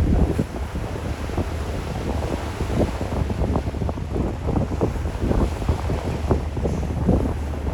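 Wind buffeting the microphone in irregular gusts over a steady low rumble, on a ferry under way.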